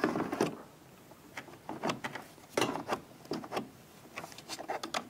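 Irregular plastic clicks and knocks from the removable brew group of a Saeco Syntia espresso machine being handled and fitted into its housing.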